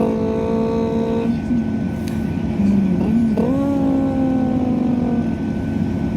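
A diesel train's underfloor engine running under power. Its several-toned note holds steady, jumps up about three seconds in, then slowly falls away. The rider likens its revving to a Subaru or a Honda hitting VTEC.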